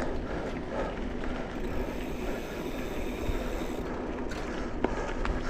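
Mountain bike rolling along a dirt trail: steady tyre and wind noise, with a few sharp rattles and clicks near the end.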